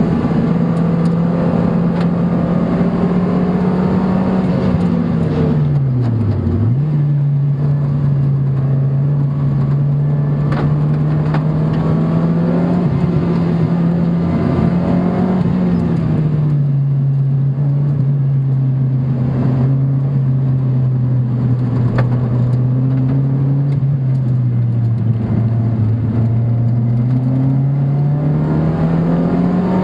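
Car engine running hard on a circuit lap, heard from inside the car over road and wind noise. Its pitch falls sharply about six seconds in and jumps back up, then holds fairly steady, drops a step around the middle and climbs again near the end as the car speeds up.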